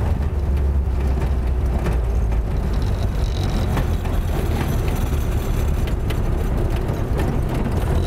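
Ford Model B four-cylinder side-valve engine running steadily under load as the open hot rod drives along, with a deep steady engine note. The car's body adds clattering and rattling.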